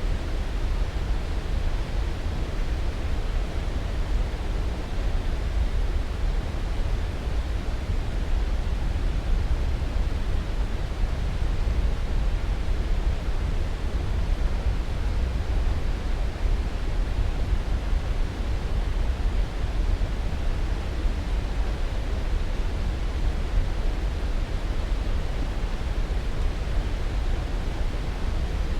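Steady white-noise sleep sound: an even, unchanging rushing noise, heaviest in the low end and thinning toward the top.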